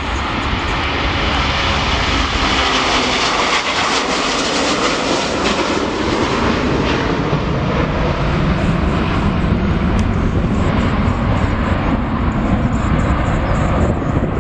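Jet airliner's engines running loud and steady as it passes close by, the sound turning deeper in the second half as it moves away.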